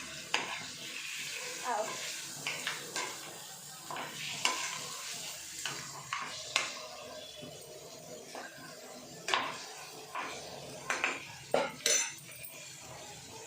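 Chicken pieces being stirred in a frying pan with a spoon: irregular scrapes and clinks against the pan over a steady sizzle of frying.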